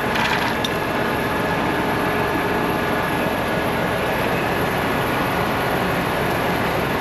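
Large John Deere farm tractor's diesel engine running steadily at idle, with a couple of short clicks in the first second.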